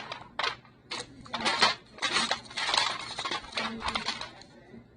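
Small craft decorations being handled and set down: a run of short rustling and clattering noises, about eight in all, dying away near the end.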